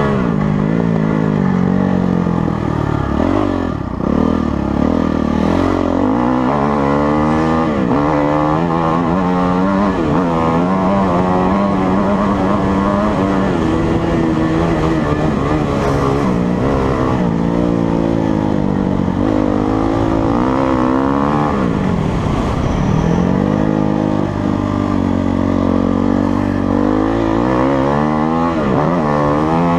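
Motocross bike engine being ridden hard, its pitch climbing under throttle and falling back over and over as it revs up and shifts. It drops off sharply when the throttle is shut, a few seconds in and again about two-thirds of the way through.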